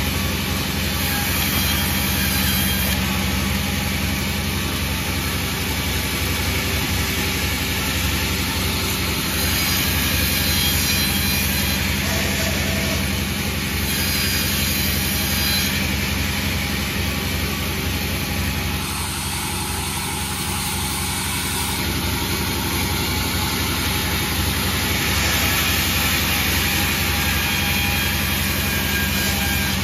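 Panda36 sawmill running steadily while sawing a bayur log, a constant machine hum under the noise of the cut, which swells a little now and then.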